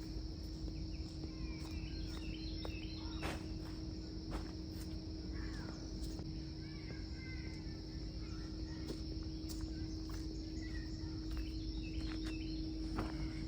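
Outdoor nature ambience: a steady high insect drone with scattered short bird chirps over it, a steady low hum and a few sharp clicks.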